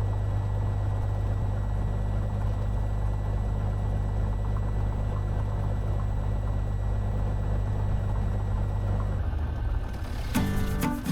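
Cessna 182's piston engine idling steadily, a low drone heard from inside the cockpit. Near the end the drone breaks off and music starts.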